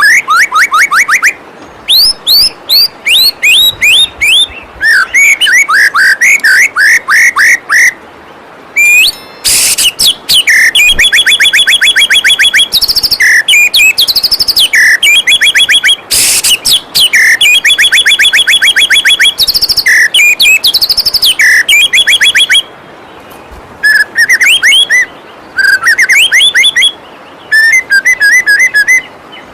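White-rumped shama (murai batu) singing loud phrases of rapid, repeated whistled sweeps and trills, broken by short pauses. Under it runs the steady rush of a waterfall.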